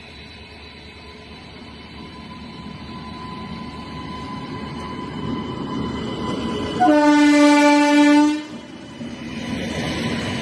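Electric locomotive running on the line, its rumble growing louder as it approaches, with one loud horn blast of about a second and a half near the end.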